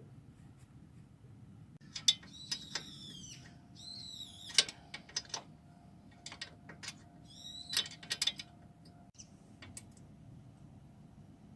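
Sharp metallic clicks and taps of engine parts and tools being handled during engine assembly, with three short high-pitched squeaks.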